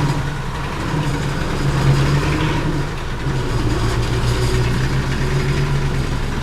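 Dump truck engine running steadily.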